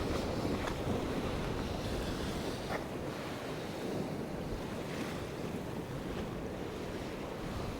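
Rough North Sea waves breaking in a storm, a steady surf wash, with strong wind buffeting the microphone.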